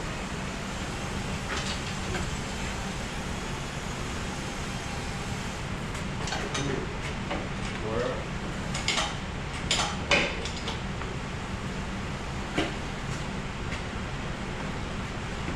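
Engine hoist loaded with a heavy diesel engine being pushed across a shop floor: a steady rolling rumble with a low hum, and scattered metal clanks and knocks from about six to ten seconds in.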